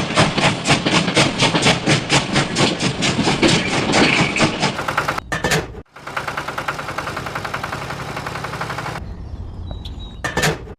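An engine running with a rapid, even clatter of about seven knocks a second, which breaks off abruptly about five to six seconds in. A smoother, quieter engine sound follows and fades down near the end.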